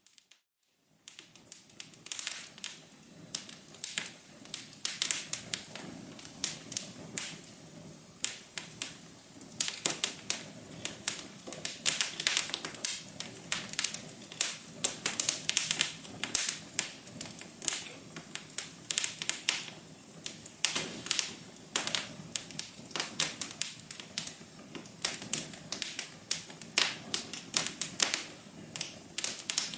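Wood fire crackling in a fireplace: dense, irregular sharp pops and snaps over a soft steady hiss. The sound drops out briefly right at the start, then the crackling carries on.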